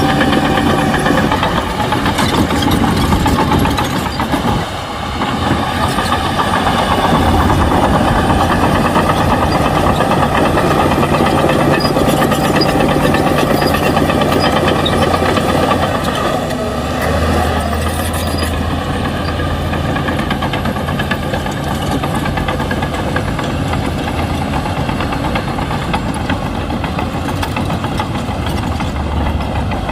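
Shantui bulldozer's diesel engine running steadily as the machine works, with a brief dip about four seconds in and a lower, slightly quieter tone after about sixteen seconds.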